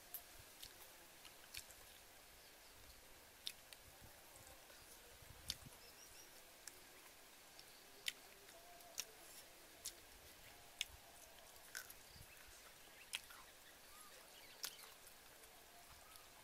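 A person chewing and biting grilled chicken off a skewer: faint, with sharp short mouth clicks and smacks at irregular intervals, roughly one every second, over a quiet steady background hiss.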